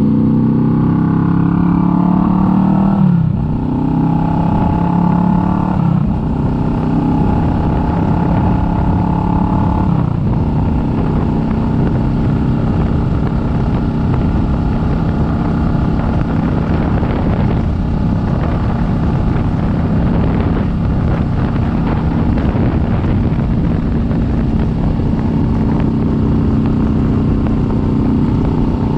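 Kawasaki Vulcan S 650's parallel-twin engine accelerating through the gears, its pitch rising and then dropping with upshifts about three and six seconds in. It then settles into a steady cruise.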